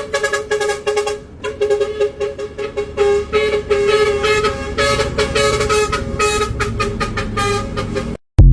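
Truck horns tooting in rapid, repeated blasts of several tones at once, over a low engine rumble. The sound cuts off suddenly near the end.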